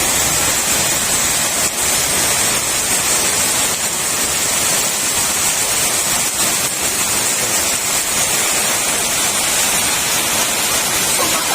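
Heavy downpour with strong wind: a loud, steady rushing hiss with no let-up.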